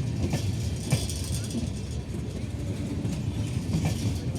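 Indian Railways passenger coaches running on track: a steady low rumble broken by a few sharp clicks of the wheels over rail joints.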